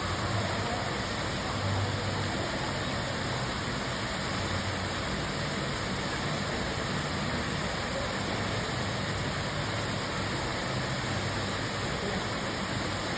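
Steady rushing splash of a pool waterfall, with a faint low hum underneath.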